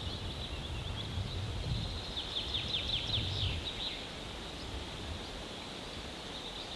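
Small songbird singing a quick run of short falling notes about two seconds in, with a few more near the end, over steady outdoor background noise.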